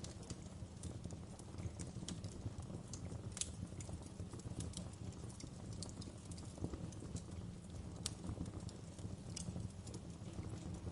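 Wood fire burning: irregular sharp crackles and pops of the burning wood over a steady low rumble of the flames, with a couple of stronger pops, one about a third of the way in and one near three-quarters.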